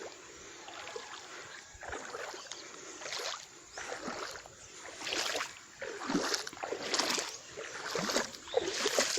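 River water running, with a series of splashes and sloshes that come more often in the second half.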